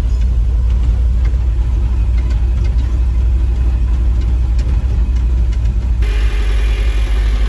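Farm truck engine running steadily, a strong low rumble as the truck is driven. About six seconds in the sound changes abruptly, with more rattle and higher-pitched noise over the engine.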